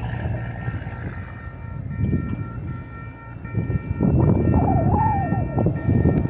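Freight train passing, a low rumble that grows louder about four seconds in, with several steady high-pitched tones held over it.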